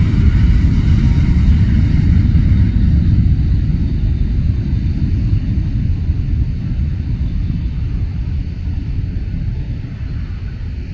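Boeing 777-300 with Rolls-Royce engines departing at takeoff thrust: a deep, loud rumble that fades steadily as the jet climbs away, its higher hiss dropping out about two seconds in.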